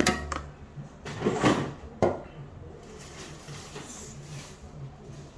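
Kitchen handling noises: a sharp click, a short rustling swell, then another sharp knock about two seconds in, followed by quieter scattered handling.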